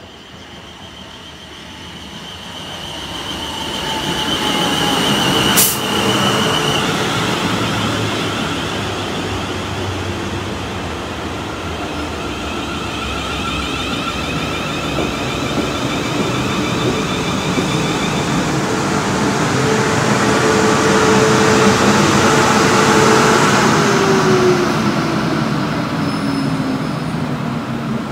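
South Western Railway Class 450 electric multiple unit running into the platform and braking to a stop, its wheels rumbling on the rails and growing louder as it nears. There is a sharp click about six seconds in. Near the end the traction-motor whine falls in pitch as the train slows to a stand.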